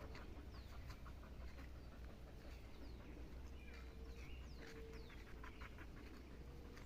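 Faint bird chirps: a few short, high calls scattered over a low steady rumble.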